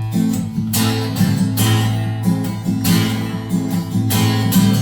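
Acoustic guitar strummed in a steady rhythm, about one full strum a second, over a ringing low bass note: an instrumental passage of a bard song.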